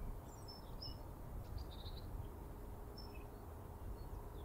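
Faint outdoor ambience: a few short, high bird chirps scattered over steady low background noise.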